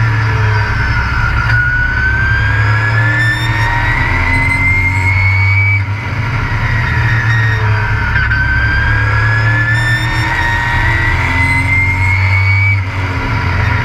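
Race truck engine heard on board under racing load, its pitch rising steadily for about four seconds at a time. It drops with a brief dip in loudness about six seconds in and again near the end, as the driver lifts off the throttle, then pulls again.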